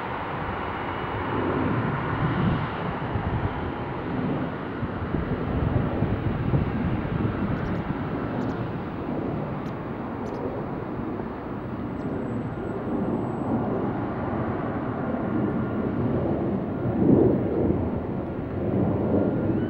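Twin-engine Boeing jet airliner landing: a steady rumble of jet engine noise, with a brief swell near the end.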